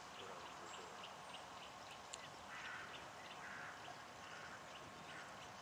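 Faint outdoor background with scattered bird calls, including two short calls about a second apart near the middle.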